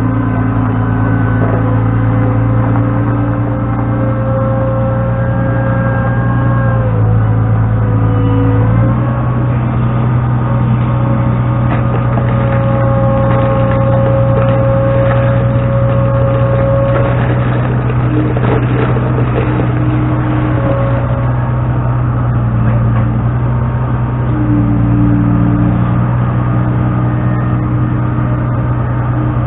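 Skid steer engine running steadily under load while hauling dirt, its engine speed dropping briefly about seven seconds in and shifting again near the end.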